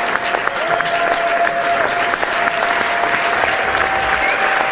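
Crowd applause: many people clapping in a dense, steady patter. A long held tone runs through it in stretches, bending in pitch where each stretch starts and stops.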